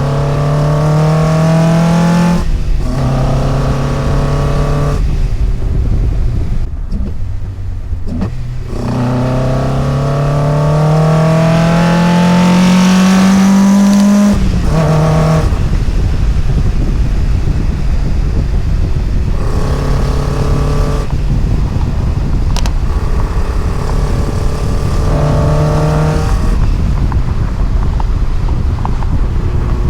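NC Mazda Miata's 2.55-litre high-compression four-cylinder with individual throttle bodies, running under way. Engine speed holds and climbs in short stretches broken by brief dips, then rises steadily in one long pull of about six seconds and cuts off sharply. After that it runs lower, with a few brief rises in revs.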